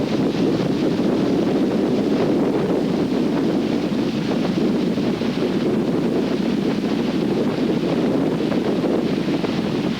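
Strong storm wind blowing across the microphone, a steady heavy rush of noise.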